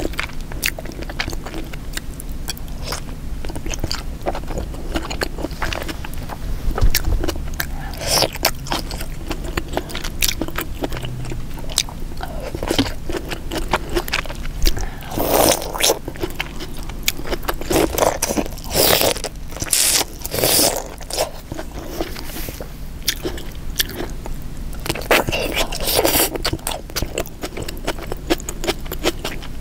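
Close-miked eating sounds: chewing and wet mouth smacks on seafood boil in sauce, potatoes and deshelled king crab, with many small clicks and a few louder stretches of chewing in the second half.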